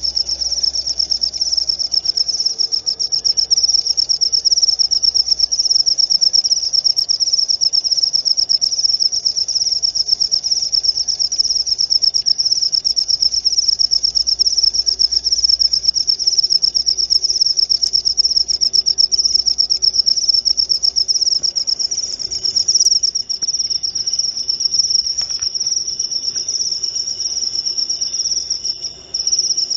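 Jaliteng crickets chirping without a break: a loud, fast-pulsed high trill.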